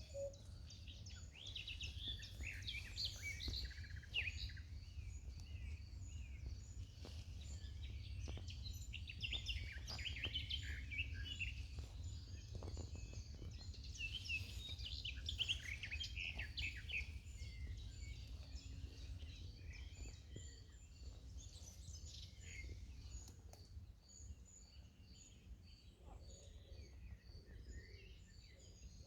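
Several songbirds chirping and singing over a steady low rumble. In the last third, a high call of short notes repeats evenly.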